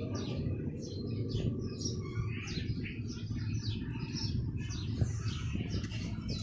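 Small birds chirping, a quick string of short, high chirps, over a steady low rumble.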